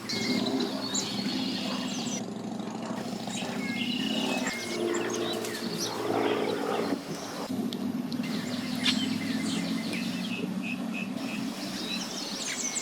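Boat engine running steadily at low speed, a low even hum that shifts a little in the middle, with birds chirping over it.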